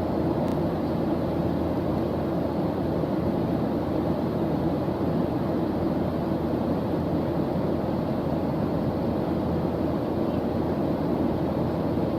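A steady white-noise background track, weighted toward the low end so it sounds like a deep, even rush. It stays constant throughout, with no change in level.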